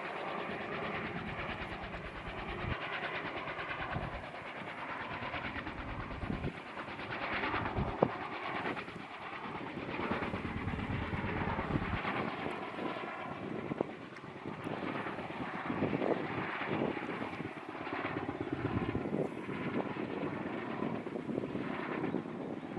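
Kaman K-MAX helicopter with intermeshing twin rotors, its rotor beat and engine noise heard steadily; the low rotor thump drops away about halfway through.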